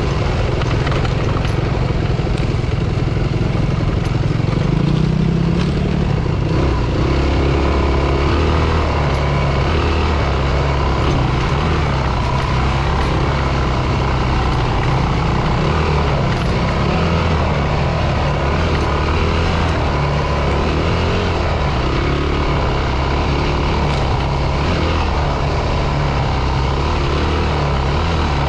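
Dirt bike engine running on a trail ride, its pitch rising and falling with the throttle.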